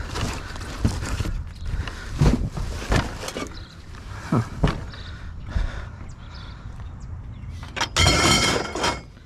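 Junk being rummaged through by hand: scattered knocks and clunks of objects being moved, then a louder, longer rattling scrape of metal about eight seconds in.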